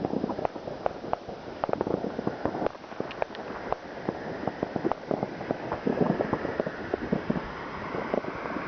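New Year's Eve fireworks and firecrackers going off all around: a dense, irregular crackle of many sharp bangs and pops over a steady background rush.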